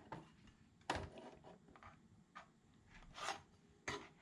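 Faint, scattered clicks and light knocks, about five in four seconds, from small tools and instrument-cluster parts being handled while the gauges are pried out.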